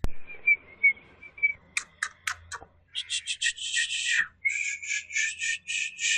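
Bird calls: a few short whistled notes, then several sharp clicks, then a long run of rapid rasping chatter.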